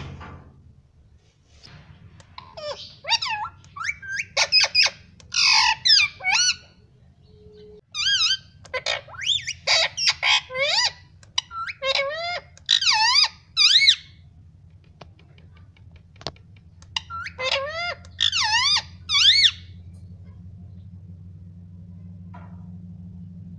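Pet parrot giving rapid series of shrill, bending squawks and chirps in three bursts with short pauses between them.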